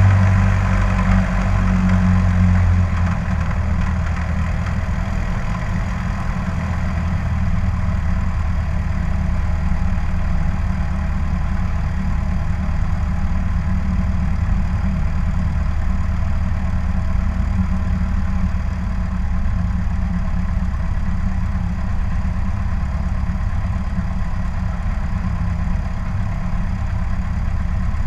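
Cessna 152's four-cylinder Lycoming piston engine running steadily, heard from a camera on the wing, a little louder for the first few seconds and then even.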